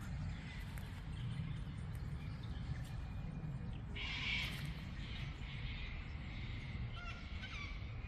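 Forest birds calling over a steady low rumble: one harsh squawk about halfway through and a few short chirps near the end.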